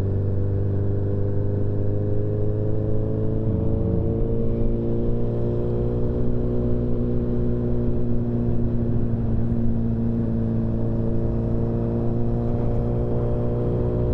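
Motorcycle engine running at a steady cruise while riding, its pitch drifting slowly up over the last several seconds.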